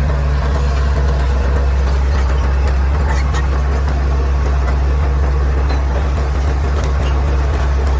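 Caterpillar D6R XL bulldozer's diesel engine running at a steady, even low drone, with a few faint clicks over it.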